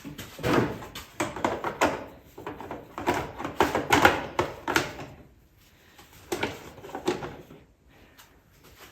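Knocks and clicks of a part being handled and fitted back onto an ATV by hand. They come in a quick, irregular run for about five seconds, then a few more after a short pause.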